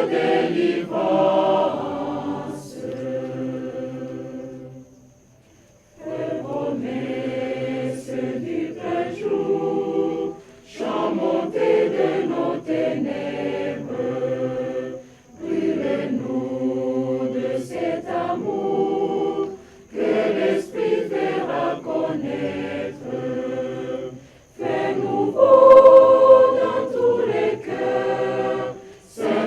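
Church choir singing a French hymn in phrases of a few seconds, with short breaks between them. The singing fades to a brief pause about five seconds in before the next phrase begins.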